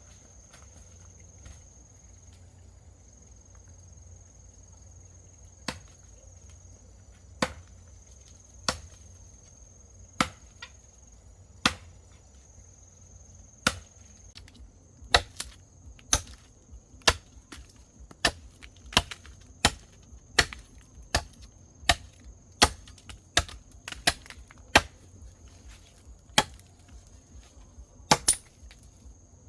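Repeated sharp chopping strikes on wood. A few come a second or two apart at first, then they settle to about one a second. A steady high-pitched insect trill runs behind them.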